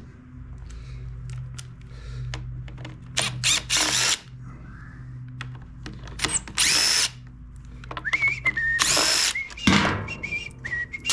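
Cordless power driver with a hex bit spinning out the screws of a backpack blower's starter cover, in several short bursts.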